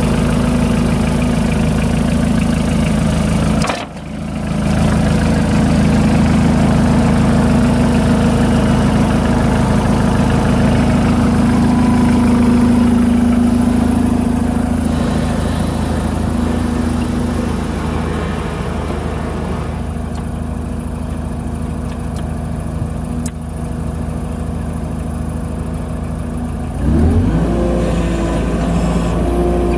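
New Holland L218 skid steer's diesel engine running steadily. The sound briefly dips about four seconds in, and the engine revs up near the end.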